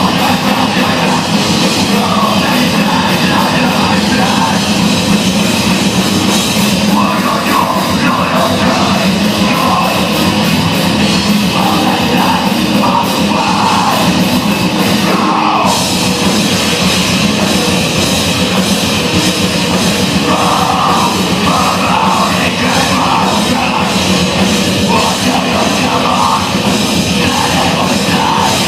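A live rock band playing loud, dense heavy rock on electric guitars and a drum kit.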